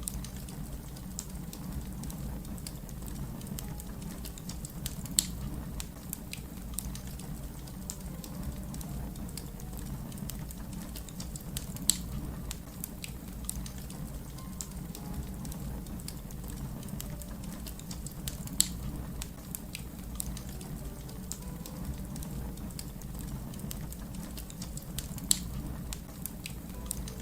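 Wood fire crackling: a steady low rumble under constant small snaps, with a louder sharp pop about every six or seven seconds, four in all.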